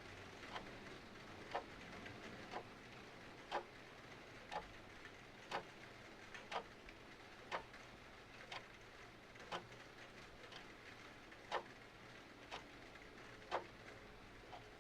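Mechanical clock ticking about once a second, some ticks louder than others, over a steady soft hiss of rain.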